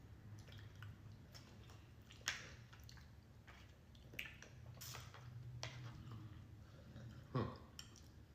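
Close-miked chewing of soft food: wet mouth smacks and small clicks, with a few louder sharp clicks, the loudest just past two seconds and near the end. A low steady hum runs underneath.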